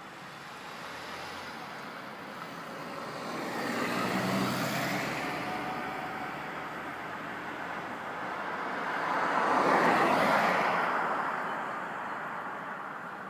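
Road vehicles driving past, one at a time: the first swells and fades about four seconds in, and a second, louder one passes about ten seconds in.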